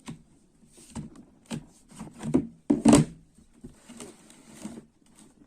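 Laptop being handled on a hard surface for disassembly: a string of irregular knocks and clatters, the loudest about three seconds in.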